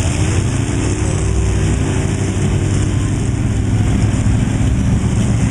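A loud truck engine running, its pitch drifting up and down slightly.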